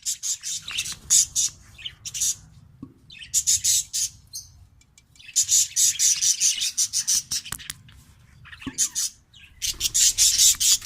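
A colony of budgerigars chattering and squawking in rapid, harsh bouts, several bursts broken by short pauses.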